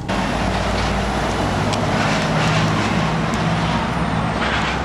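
A motor vehicle's engine running steadily, a low even hum under a constant noisy rush.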